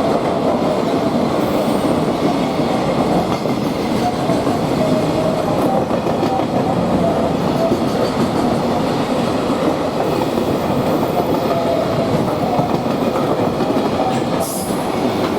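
Japanese freight train's wagons rolling past with a steady rumble and wheel clatter on the rails, with a faint on-and-off squeal.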